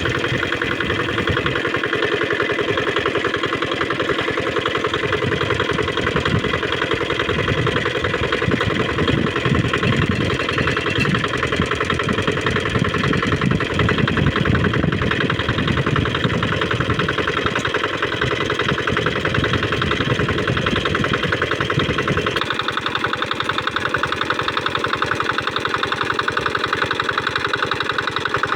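Small 5 hp diesel engine driving a water pump, running steadily with a rapid, even knock of firing strokes. About three-quarters of the way through its sound shifts, the low part thinning, and it runs on steadily.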